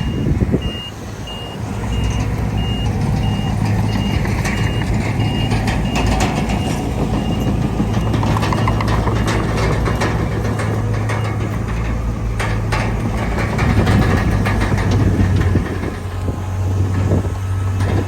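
Heavy diesel earthmoving machinery running steadily, with a reversing alarm beeping about twice a second that stops about seven seconds in. Scattered knocks follow later.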